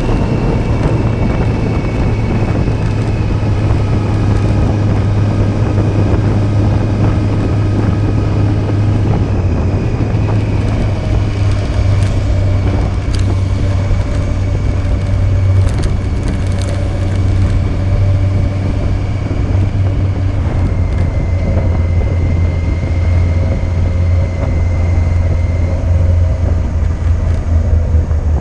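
Yamaha Fazer 600 inline-four engine running steadily while the motorcycle is under way, heard from a camera mounted on the bike. The engine note shifts a little a few times and drops lower near the end.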